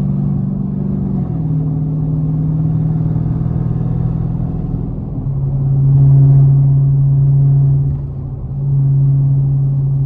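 Supercharged 6.2-litre HEMI V8 of a Dodge Hellcat cruising on the highway, heard from inside the car: a steady drone whose pitch steps down about a second in and again about five seconds in. It grows louder after the second step, dips briefly near eight seconds, then picks back up.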